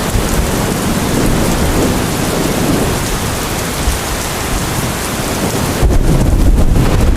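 Steady rain with a deep low rumble underneath. Near the end the high hiss of the rain thins suddenly while the low rumble grows louder.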